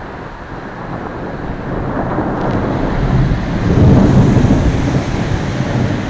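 A long roll of thunder, swelling to its loudest about two-thirds of the way through and then easing off, over a steady hiss of rain.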